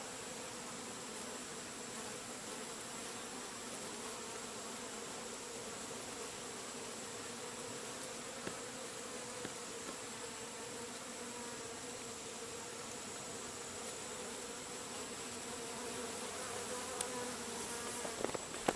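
Steady hum of a large honey bee colony in a hollow tree section, many bees droning together, growing a little louder near the end.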